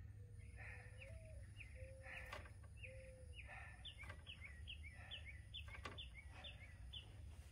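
Faint bird song: a run of short, quick downward-slurred chirps, about two a second, coming a little faster in the second half.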